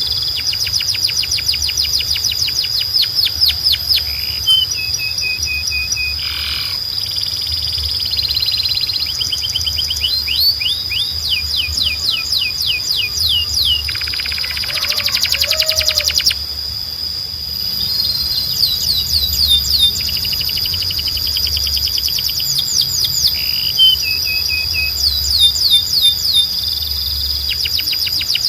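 Canary singing: runs of quick, evenly repeated falling whistled notes, with a dense rapid trill about halfway through and a couple of short held notes. A steady high-pitched tone runs underneath.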